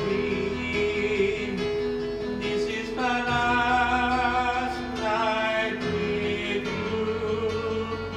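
A solo singer holding long sung notes over a slow instrumental accompaniment with a sustained bass line.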